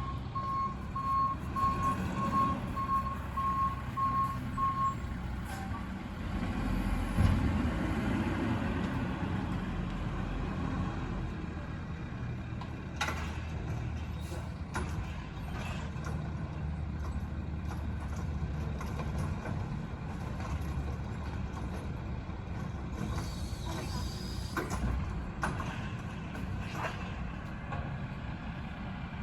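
Garbage truck with its reversing alarm beeping steadily, about two beeps a second, for the first five seconds, over the truck's engine running. The engine gets louder for a few seconds around seven seconds in, and there are a few sharp knocks and a brief hiss later on.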